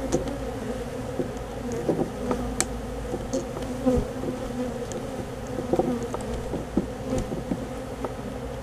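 Swarm of honey bees buzzing steadily around an opened feral colony. Scattered light clicks and taps sound over the hum.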